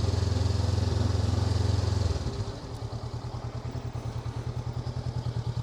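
Honda NX500's parallel-twin engine running as the motorcycle is ridden: a loud steady drone for about the first two seconds, then easing to a quieter, evenly pulsing run.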